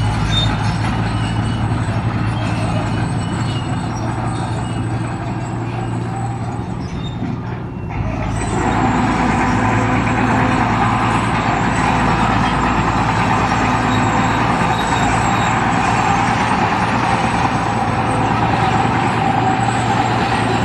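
Diesel engines of heavy earthmoving machinery running steadily with a low, even hum. About eight seconds in the sound shifts abruptly and gets louder and fuller.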